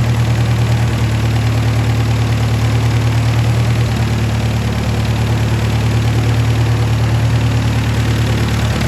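The Hercules IXA four-cylinder engine of a 1936 Silver King R44 tractor idling steadily after its refresh, its note shifting slightly a couple of times.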